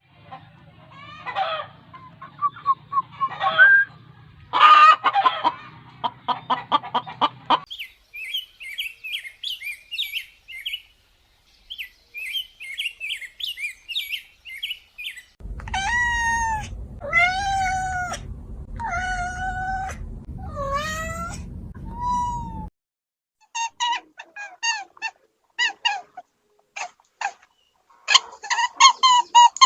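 A string of animal calls from separate recordings: high bird chirping, then a cat meowing about six times, then quick repeated chicken calls near the end.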